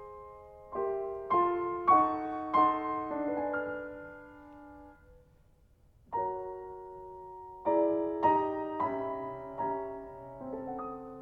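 Background music: slow solo piano, single notes and chords struck one after another and left to ring, in two phrases with a brief pause between them about five seconds in.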